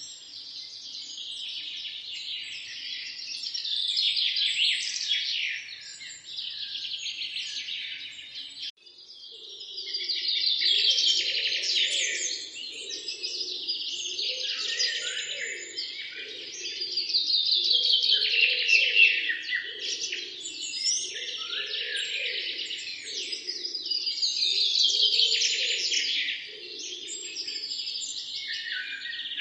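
A dense chorus of many small songbirds chirping and trilling over one another. It breaks off abruptly for a moment about nine seconds in, then comes back with a lower call repeating about once a second beneath it.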